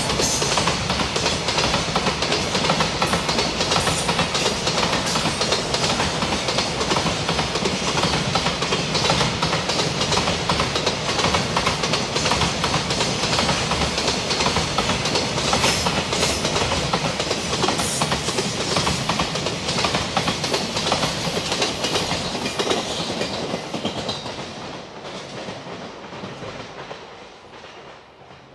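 Container wagons of a freight train rolling past at close range: a steady wheel-on-rail rumble with clacks of the wheels over rail joints. The sound fades away over the last few seconds as the end of the train passes.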